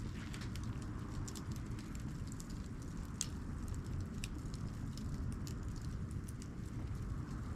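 Wood campfire laid in a log-cabin crisscross stack, burning with a steady low rush and scattered sharp crackles and pops, several a second.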